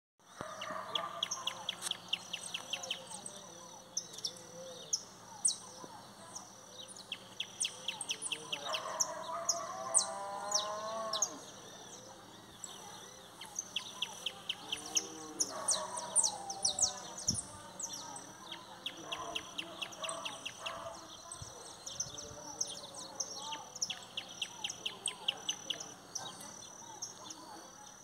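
Several birds calling and singing: repeated rapid chirping trills and a high note repeated over and over. Two longer, lower wavering calls stand out, the louder one about nine seconds in and another around fifteen seconds.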